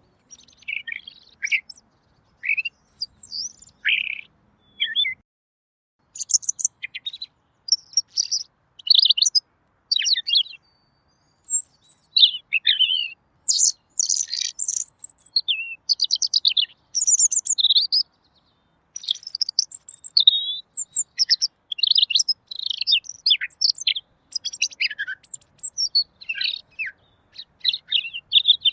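Pekin robin (red-billed leiothrix) singing clearly: a fast, varied run of chirps and trills in short phrases, with brief pauses about five seconds in and again about eighteen seconds in.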